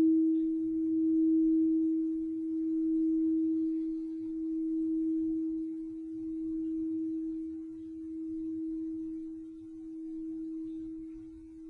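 Crystal singing bowl ringing one steady low note that swells and fades in slow waves about every two seconds while slowly dying down.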